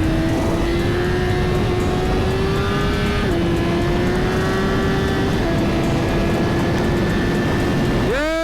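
Suzuki GSX-R1000 inline-four engine running at a steady cruise under wind rush, its pitch creeping slowly upward and dropping abruptly twice, about three seconds in and again about five seconds in.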